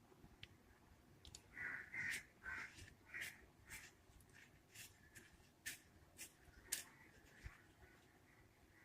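Faint crow cawing, a run of short calls over the first few seconds, with scattered light clicks.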